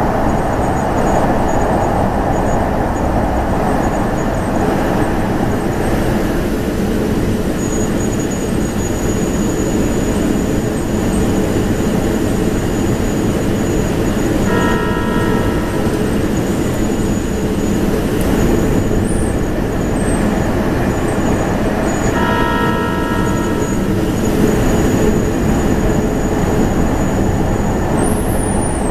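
Electric train running at speed, a steady rumble of wheels on rail, heard from the driver's cab, booming in a tunnel at first and easing about six seconds in as the train comes out into the open. A brief tone of several pitches sounds twice, about halfway and about three quarters of the way through.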